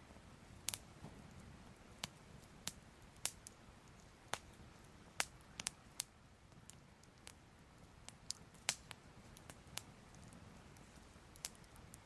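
Soft crackling fire: irregular sharp pops and snaps, roughly one a second, over a faint low rumble.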